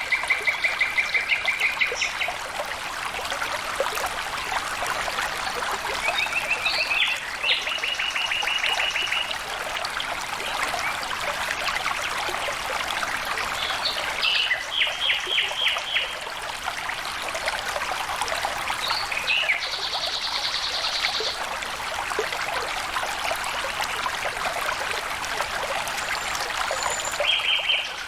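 Steady flowing water of a stream or small waterfall, with a bird singing five short, rapid trilled phrases spaced several seconds apart.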